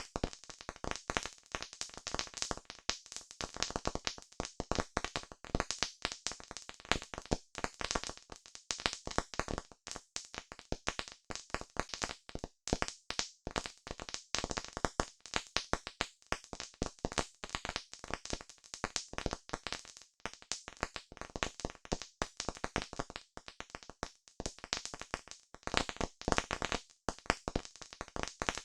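Wood campfire crackling: a dense, irregular run of sharp snaps and pops that never lets up.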